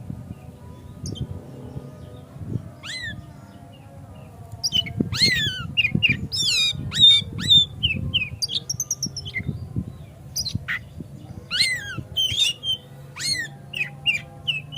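Oriental magpie-robin (kacer) singing: a fast run of loud whistled and harsh notes with sharp downward sweeps, starting about three seconds in and busiest in the middle, over a low steady hum.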